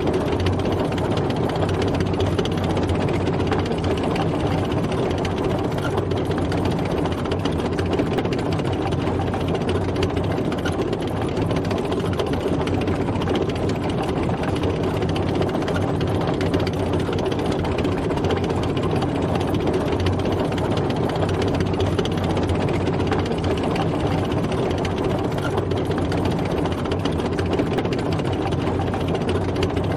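Tank driving, its engine running steadily with no change in speed or pitch: an even, unbroken mechanical rumble.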